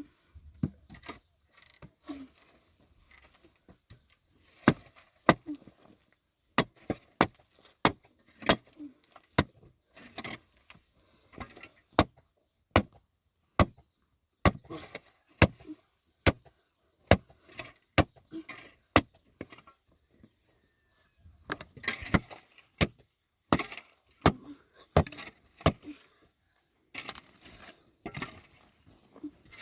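A series of sharp, irregular clicks and knocks, roughly one or two a second, with a couple of brief rustling spells later on.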